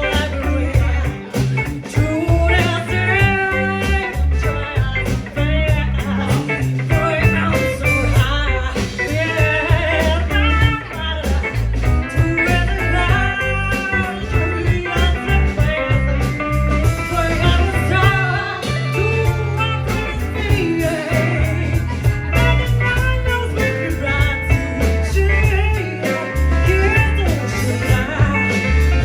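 Band music in a bluesy style, a guitar playing bending lines over a steady bass line.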